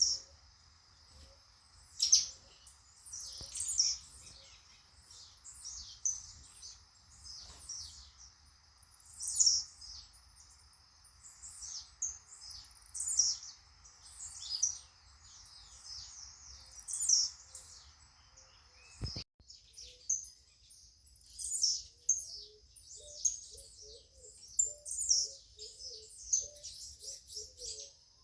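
Several birds chirping and singing in quick, overlapping phrases, over a steady high-pitched whine. About two-thirds in, a sharp click cuts off the low background rumble, after which a soft, quickly repeated low note joins the chirping.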